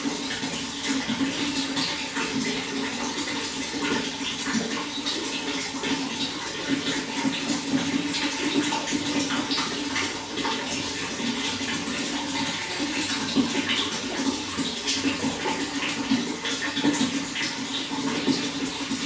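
Running water, splashing steadily with many small splashes and no pauses.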